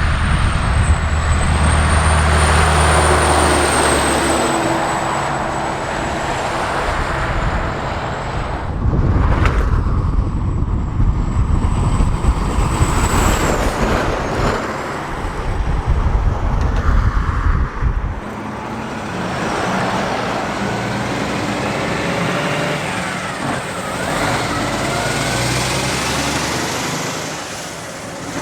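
Kenworth K100-series cabover trucks' diesel engines running and driving, with road and traffic noise. The sound changes abruptly several times, and there is a single sharp sound about nine seconds in.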